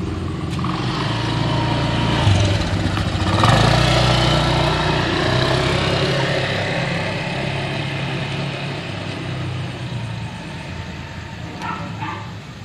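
Motor vehicle engine on a street, growing louder to a peak about three and a half seconds in as it comes close, then slowly fading away.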